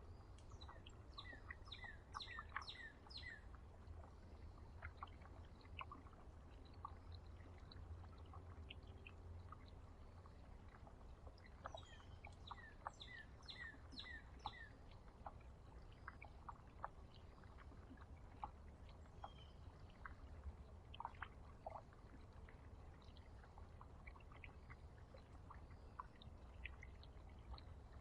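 Small songbirds chirping, faint: two quick runs of high chirps, about a second in and again around twelve seconds in, with scattered single chirps and clicks between, over a steady low rumble.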